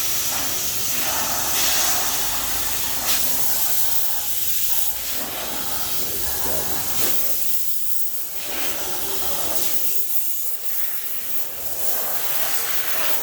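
Steady, loud hissing noise with a low rumble underneath, rising and falling a little in level.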